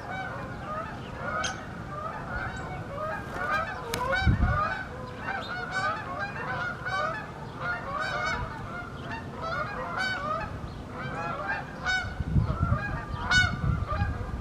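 A flock of geese honking, many short calls overlapping without a break, with brief low rumbles about four seconds in and near the end.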